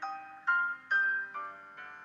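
Gentle background music: single piano or keyboard notes struck about every half second and decaying, forming a slow melody.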